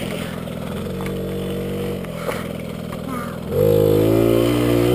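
Small dirt bike engine running at low revs, then revved hard about three and a half seconds in: louder, with the pitch rising and held before it drops off at the end.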